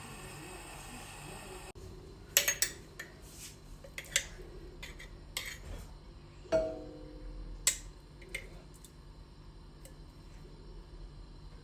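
Kitchenware clinking: a run of sharp knocks and clinks of dishes and utensils. One, about six and a half seconds in, leaves a short ringing tone.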